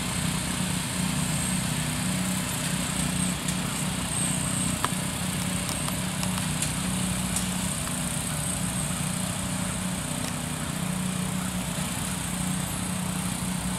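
Lawn tractor engine running steadily at an even pitch, with one short click about five seconds in.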